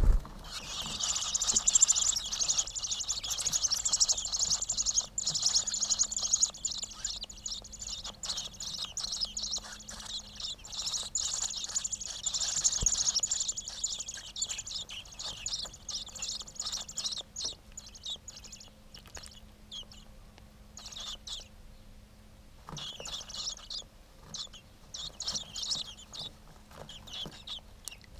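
Nestling birds chirping in rapid, high-pitched strings: dense and unbroken for the first half, then in short bursts with a pause between.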